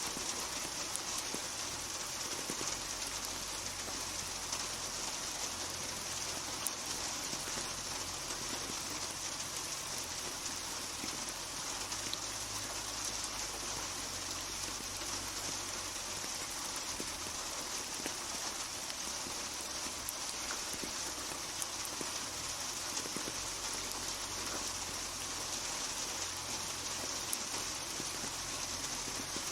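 Steady rainfall: an even hiss of rain with scattered drops pattering on a hard surface.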